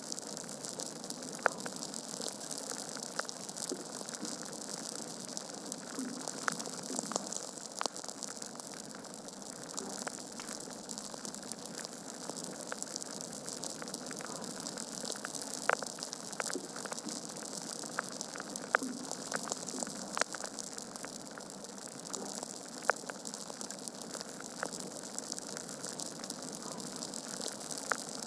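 Wood fire crackling in a fireplace: a steady hiss of burning logs with irregular sharp pops and snaps, a handful of them louder than the rest.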